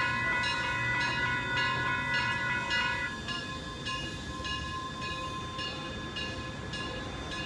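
Narrow-gauge steam locomotive's whistle blowing a long blast that stops about three seconds in, while the locomotive bell rings steadily at about two strokes a second over the low rumble of the train.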